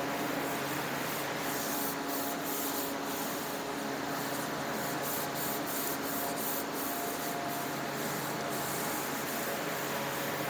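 Hand scrubbing on a metal aircraft exhaust pipe coated in brightener: irregular rubbing strokes, over a steady machine hum.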